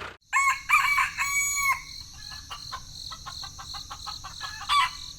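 A rooster crowing once, a drawn-out call lasting about a second and a half, over a steady high chirring of insects such as crickets. A short second fowl call comes near the end.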